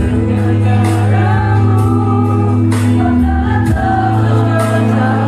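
Women's choir singing with sustained low instrumental notes underneath and a few sharp beats.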